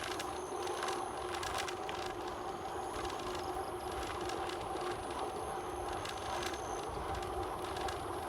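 Steady noise of a bicycle being ridden: rolling tyres and wind on the microphone, with a constant hum and scattered faint clicks.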